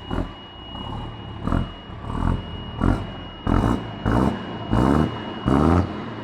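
Unimog truck engine revved in a run of quick throttle blips over a steady idle, about three every two seconds, each blip rising in pitch and the later ones lasting longer.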